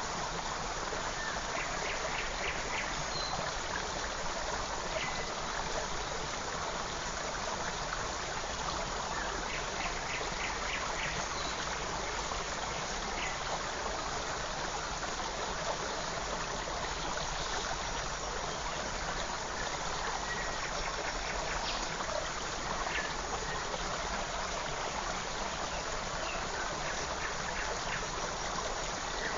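Steady rushing and trickling of a forest creek, with faint short bird calls and chirps now and then.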